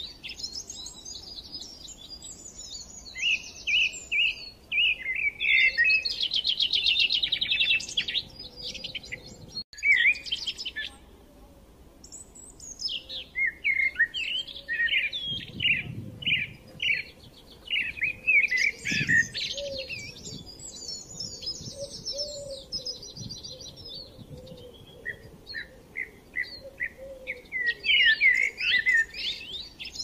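Many birds chirping and twittering: dense high-pitched calls and fast trills, with a short break about ten seconds in.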